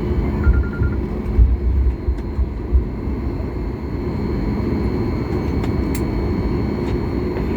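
Steady hum and rumble inside the cabin of a Boeing 737 MAX 8 taxiing after landing, with a few low thumps in the first three seconds.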